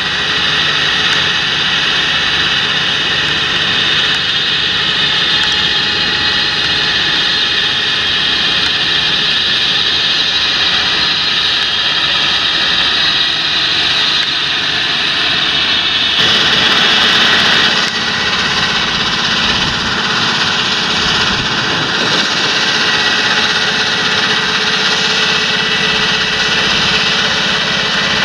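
John Deere tractor engine running steadily, with a dense hiss over the engine note; the sound shifts abruptly about sixteen seconds in and then runs on steadily.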